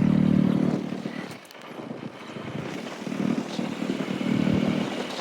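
An engine running steadily. It drops away about a second in and comes back weaker near the end.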